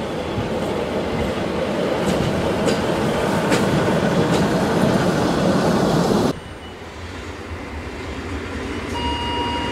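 A self-propelled rail maintenance trolley carrying a sprayer rolls past with a steady loud rumble and a few wheel clicks. After an abrupt cut, an EN57 electric multiple unit pulls away more quietly, and a steady high whine comes in near the end.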